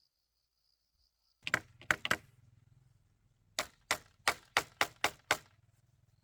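Sharp blows of a hand tool on bamboo: three quick strikes about a second and a half in, then after a pause a run of seven, about three a second.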